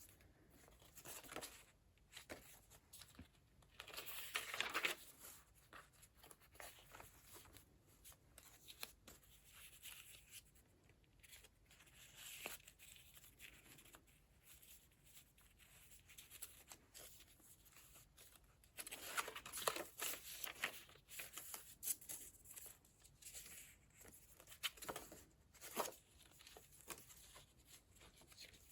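Pages of a handmade paper journal being turned and handled: faint paper rustling and crinkling in scattered bursts, loudest about four seconds in and again around twenty seconds in.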